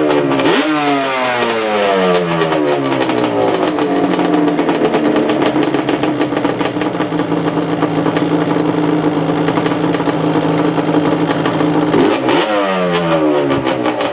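Yamaha Banshee 350's twin-cylinder two-stroke engine idling, blipped up about half a second in and again near the end, the revs falling back to a steady idle each time. No bell-like ringing from the kickstart, which the owner no longer hears after rebuilding it.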